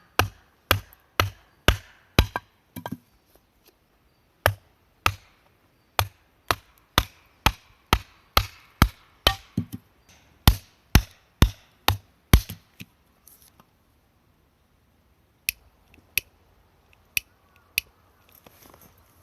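Firewood being chopped or split with a hatchet: sharp, even blows on wood, about two a second. There is a short break, then the blows stop about two-thirds of the way through, and a few more single strikes come near the end.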